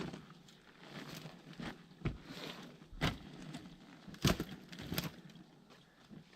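Wood campfire crackling, with a few sharp, irregular pops and cracks, the loudest a little past the middle.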